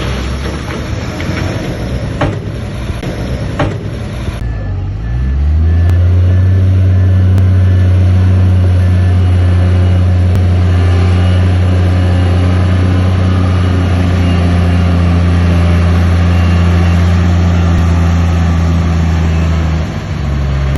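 Heavy diesel earthmoving engine. A few seconds of rough rumbling with a couple of knocks, then it revs up about five seconds in and holds a loud, steady drone under load, easing off near the end.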